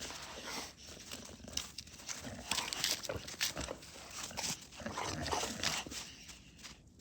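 A dog playing with a stick, making dog noises amid irregular crunching and rustling.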